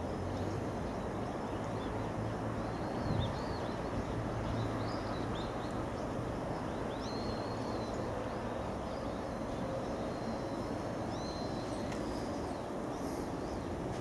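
Small birds chirping now and then, short high calls that flick up and down in pitch, over a steady bed of background noise.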